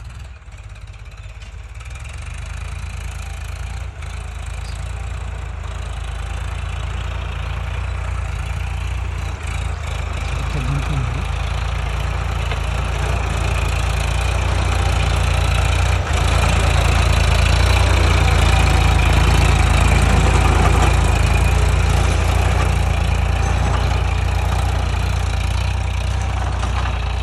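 Tractor engine running while ploughing the field, growing steadily louder over the first fifteen seconds or so as it comes closer, then holding at a steady level.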